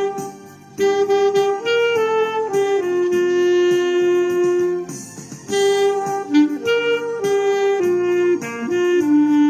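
Clarinet playing a song melody in held notes, in two phrases with a short break about half a second in and another near the middle.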